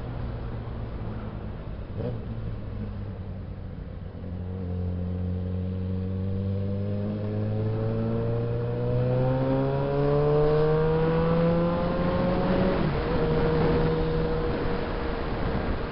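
Suzuki Bandit 650S inline-four motorcycle engine under way: it runs steadily, then its pitch climbs smoothly for about eight seconds as it accelerates. Near the end the pitch drops sharply at a gear change and then holds steady.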